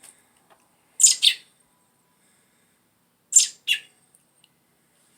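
Baby bird chirping in two short high-pitched bursts about two seconds apart, a nestling's begging calls while being hand-fed worms.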